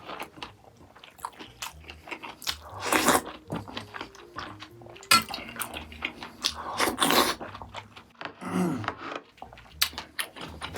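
A person eating close to the microphone: irregular chewing and biting with crunchy, wet mouth sounds, loudest about three seconds in and again about seven seconds in. Quiet background music runs underneath.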